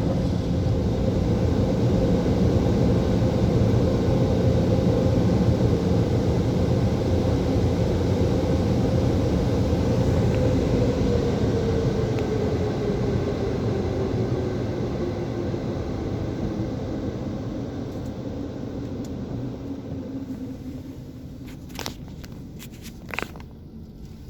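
Car wash dryer blowers running with a steady rush, their hum sliding down in pitch as they wind down and fade. A few sharp clicks near the end.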